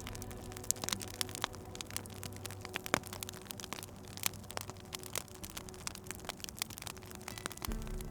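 Wood fire crackling, with irregular sharp pops and one louder pop about three seconds in. A low steady hum runs under it for the first few seconds and comes back near the end.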